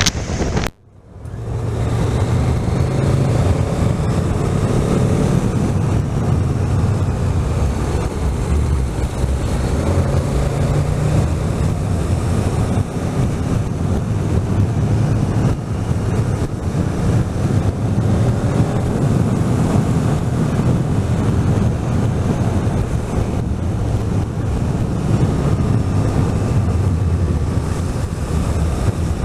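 Motorcycle engine running while riding, its pitch rising and falling a little with the revs, with wind rushing over the microphone. The sound drops out briefly at the very start before it comes in.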